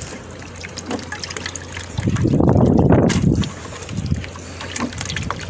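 Water tipped out of a cats' water dish, splashing onto the ground for about a second and a half, starting about two seconds in.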